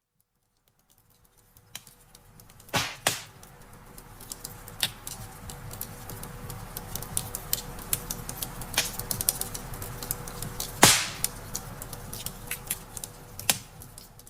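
Wood fire crackling in a fireplace: fades in from silence about a second in, then a steady low rumble of flames with scattered sharp pops and snaps, the loudest around three seconds in and again near eleven seconds.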